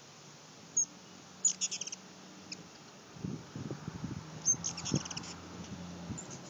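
Hummingbirds making short, very high chip calls in a few quick runs, the longest near the end, with a low steady hum underneath.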